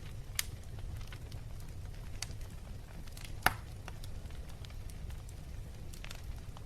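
Wood fire crackling in a fireplace: scattered sharp pops over a steady low rumble, with one loud pop about three and a half seconds in.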